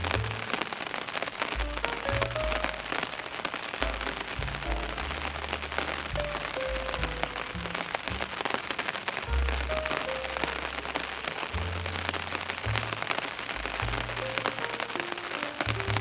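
Steady rain falling, with a constant hiss and many small drop ticks, over soft slow music of held low bass notes and a sparse melody.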